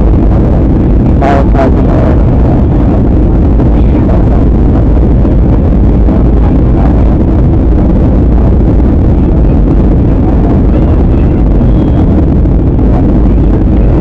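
Steady cabin noise of an airliner in flight: the constant roar of the jet engines and the airflow over the fuselage. Two short clicks come about a second and a half in.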